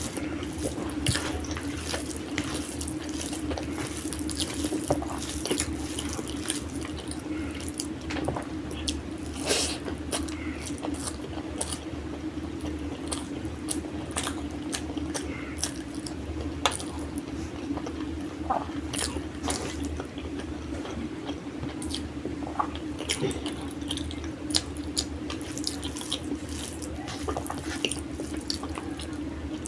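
Close-miked eating sounds: wet chewing and lip smacks of someone eating aloo biryani and malai egg, with many small irregular clicks over a steady low hum.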